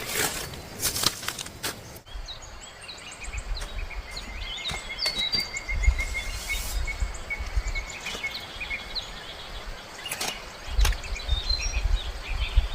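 Birds chirping and calling, with a quick run of short even notes, over a low rumble and a few scattered knocks. The first two seconds hold only a few sharp clicks.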